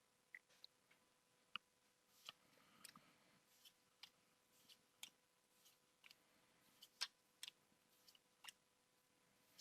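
Faint, irregular clicks and soft snaps of Pokémon trading cards being handled and flipped through one by one from a freshly opened booster pack.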